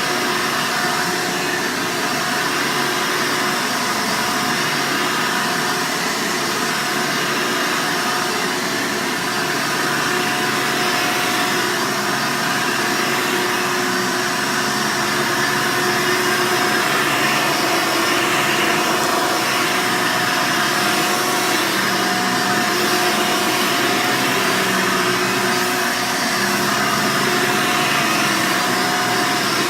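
Hoover Sprint upright vacuum cleaner running steadily: a constant motor whine over the rush of air.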